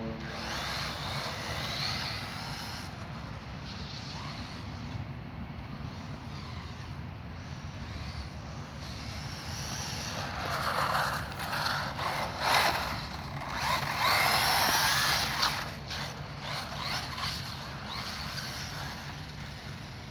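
Brushless electric motor of a 4S RC truggy running as it drives on wet ground, with louder surges of throttle about halfway through and again a few seconds later.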